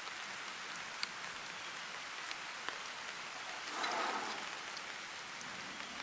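Rain falling steadily, with a few separate drops ticking sharply and a brief swell of noise about four seconds in.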